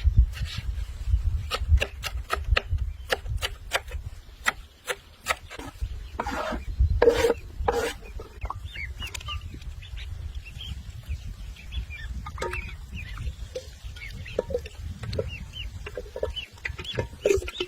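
Short bird calls, scattered and repeated, over a low rumble, with a run of sharp clicks in the first half.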